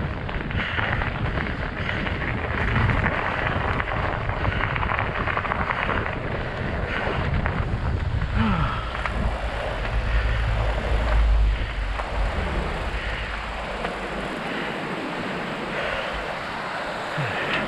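Wind buffeting the microphone, with rolling noise from studded fat-bike tyres on snow and ice. The low rumble swells for a couple of seconds about two-thirds of the way through.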